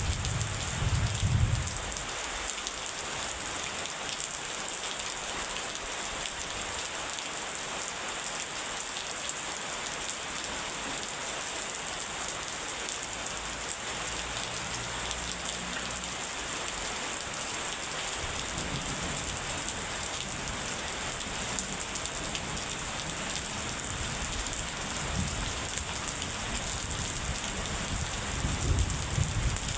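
Steady rain falling, with low rumbles of thunder in the first couple of seconds and again near the end, fainter in between.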